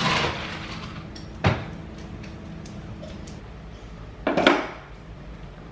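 Dog food and a dog bowl clattering: a rattle at the start, a sharp knock about a second and a half in, and a louder rattle about four and a half seconds in.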